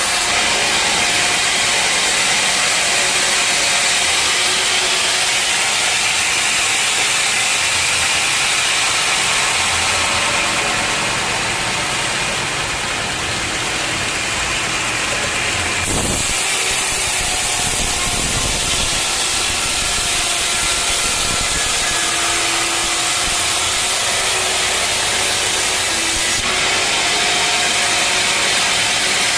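Sawmill saw and its motor running steadily while sawing a dense old teak log. The sound changes abruptly about halfway through and again near the end.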